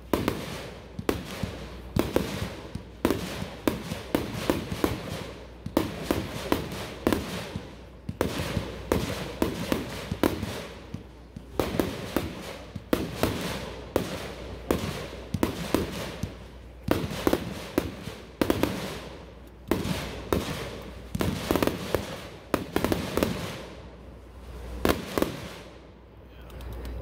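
A Pyroland 'Twirling Airburst' 60-shot fireworks cake firing: a steady run of sharp bangs and crackling bursts, about two a second, often in quick clusters, stopping shortly before the end.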